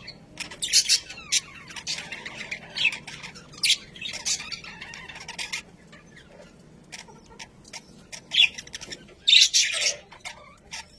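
Budgerigars chattering: quick, high chirps and squawks in bursts, with a quieter spell past the middle and a loud flurry near the end.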